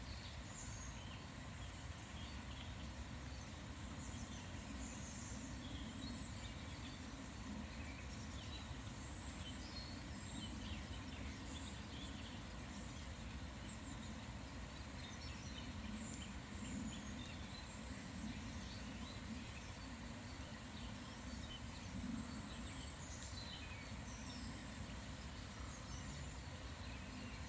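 Small songbirds chirping and calling many times over a steady low background rumble.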